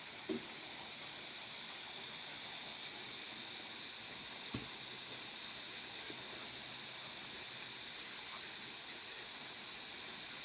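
A steady outdoor hiss, with two brief knocks, one near the start and one about halfway through.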